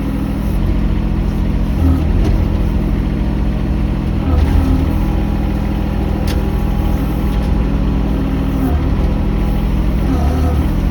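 Mini excavator's diesel engine running steadily under load, with a few sharp knocks.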